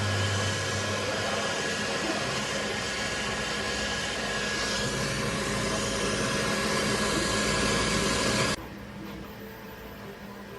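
ELEGOO Centauri Carbon 3D printer running, a steady fan whir with a low motor hum. Near the end the sound drops abruptly to a quieter steady hum.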